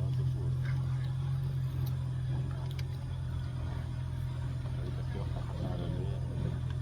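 Motorboat engine running steadily with a constant low hum.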